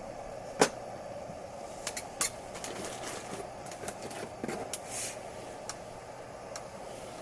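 Campfire crackling, with sharp pops scattered through, the loudest about half a second in, over a steady background hiss.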